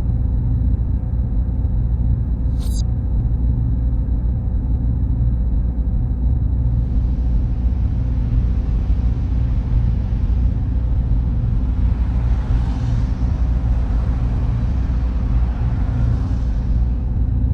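Server-room ambience: a loud, steady low hum and rumble of machines and cooling fans, with faint steady high-pitched whines. A brief sharp chirp comes about two and a half seconds in, and a soft hiss comes in about halfway through and swells near the end.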